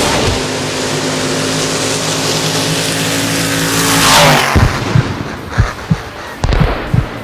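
A vehicle engine held at steady high revs over heavy rushing noise, then a loud sweeping rush about four seconds in, after which the engine drops away and low, separate thumps follow every half second or so.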